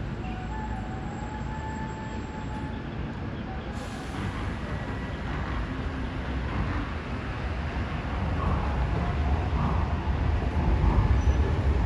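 Taipei Metro C381 electric train running at a station platform, a steady rumble with a faint whine early on that grows louder toward the end.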